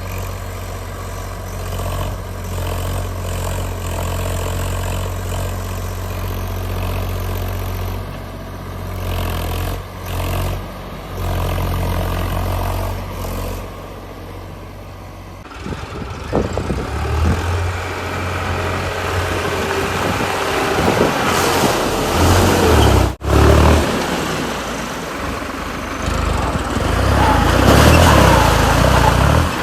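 Heavy diesel machinery running: a steady low engine hum, changing abruptly about halfway through to a louder, rougher, fluctuating mix of engine and mechanical noise, with a brief cut-out later on.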